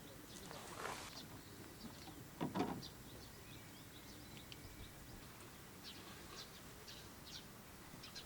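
Quiet outdoor ambience with small birds chirping in short, scattered calls, and two brief rustling handling noises, the louder about two and a half seconds in.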